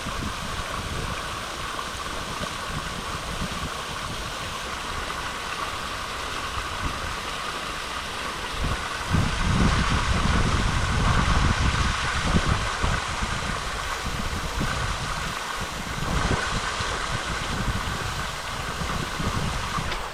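Wind buffeting the microphone, a low rumbling noise that gusts louder from about halfway through, over a steady outdoor hiss.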